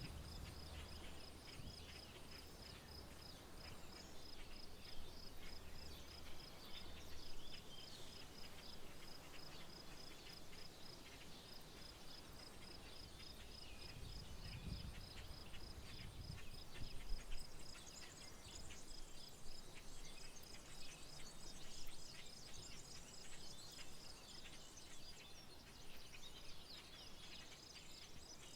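Faint outdoor soundscape of an insect chirping in an even pulse, about four pulses a second, which drops out after the middle and returns near the end, over scattered short bird chirps. A brief low rumble comes about halfway through.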